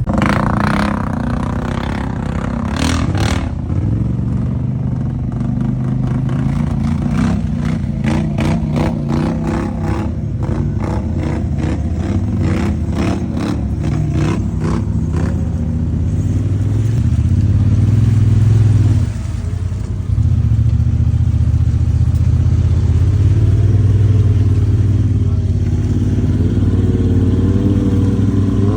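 A vehicle engine running steadily, with a quick run of rattling clatter over its middle part and a brief dip in level about two-thirds through.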